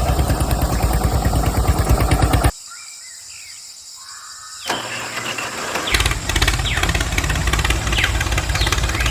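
Small engine of a miniature model tractor running with rapid, even firing pulses, cutting off suddenly about two and a half seconds in; after a quieter stretch it runs again from about six seconds in.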